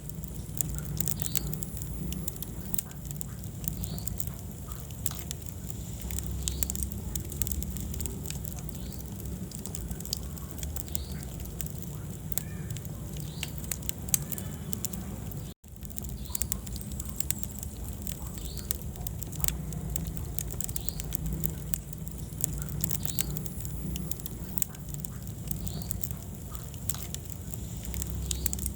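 Wood fire burning in a fireplace, with many small sharp crackles and pops over a low steady rumble of flame. The sound cuts out completely for a split second about halfway through.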